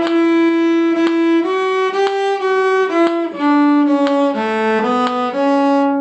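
A bowed string instrument playing a phrase of a fiddle reel: one note held for about a second and a half, then a run of shorter notes stepping down and back up, ending on a held note that stops at the very end.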